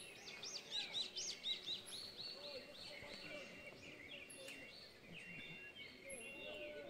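Birds singing: a quick run of arching whistled notes, about four or five a second, for the first two seconds or so, then scattered chirps and short thin whistles. Faint throughout.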